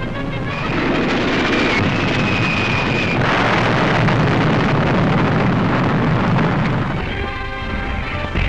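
Loud, steady rumbling roar of noise, with a faint high steady whine through the first few seconds.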